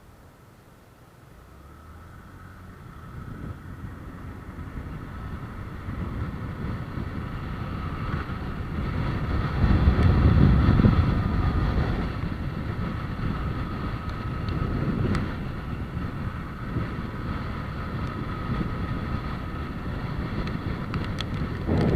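A road vehicle's rumble that grows louder to a peak about halfway through, then settles to a steadier hum, like traffic passing close by.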